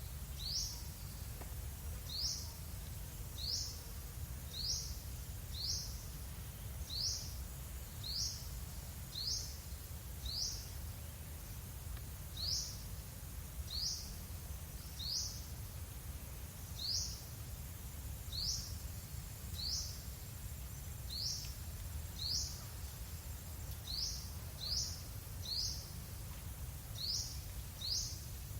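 A bird repeating one short, high call roughly once a second, over a steady low background rumble.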